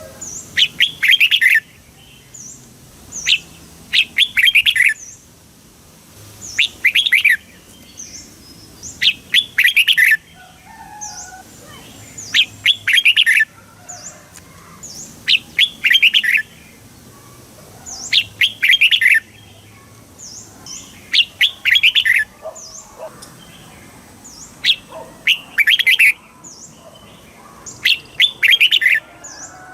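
Red-whiskered bulbul singing: a loud, short phrase of quick warbled notes repeated about every three seconds, with faint short high notes between the phrases.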